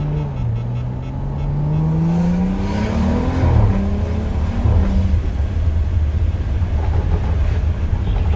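BMW 335i's turbocharged N55 inline-six with a full-bolt-on exhaust, heard from inside the cabin under acceleration. The engine note climbs for about three seconds, drops at an upshift about three and a half seconds in, then runs on loud and low.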